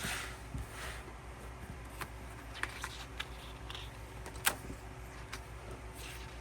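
Paper album inserts and photocards being handled: a soft rustle, then a few light, separate clicks and taps, the sharpest about halfway through.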